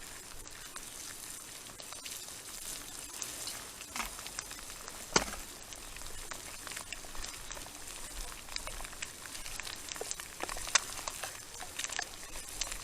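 Sausage gravy, just thinned with water, sizzling and bubbling over campfire coals, with scattered sharp crackles and pops. The two loudest pops come about five and eleven seconds in.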